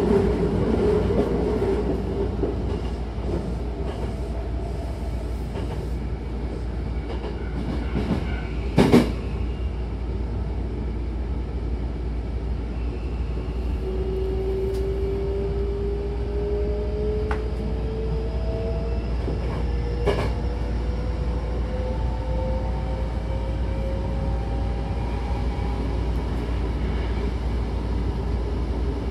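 Hankyu commuter train running, heard from inside the car by the doors: a steady rumble of wheels on track, with a sharp knock about nine seconds in. From about halfway, a motor whine rises slowly in pitch as the train gathers speed.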